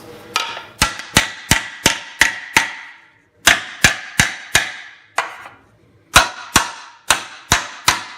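Mallet blows on sheet metal over a dished delrin shrinking stump, each with a short metallic ring. The blows come in three quick runs of about three a second with short pauses between, stretching and shrinking the panel edge so that it rolls over without rippling.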